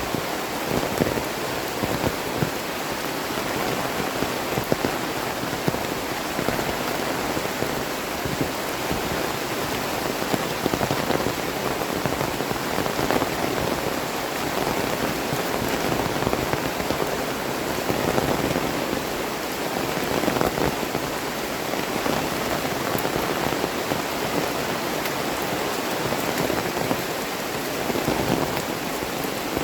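Heavy tropical rain falling steadily, a dense patter of drops hitting the surfaces around.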